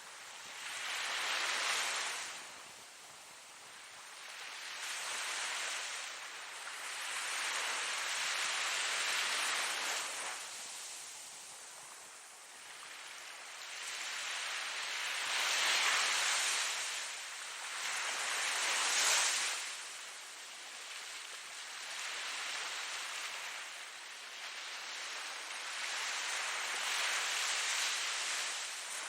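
Ocean waves breaking and washing onto the shore, coming in surges every few seconds that each swell and fade away. The sound is mostly a hissing wash with little deep rumble.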